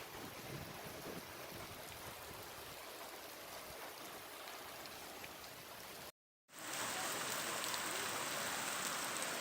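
Steady hiss of heavy rain and running floodwater. It cuts out abruptly about six seconds in and returns louder and brighter after the break.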